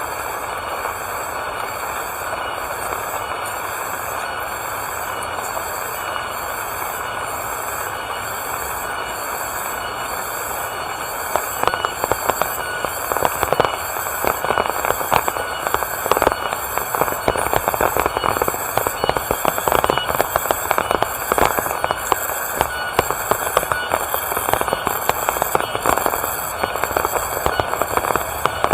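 Rain falling steadily, with drops pattering and crackling on a hard surface, heavier and more crackly from about eleven seconds in. A high chirp pulses evenly, about one and a half times a second, above the rain.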